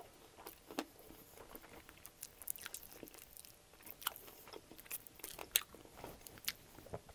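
A man chewing mouthfuls of extra-crispy air-fried chicken wing, with scattered small crunches and mouth clicks.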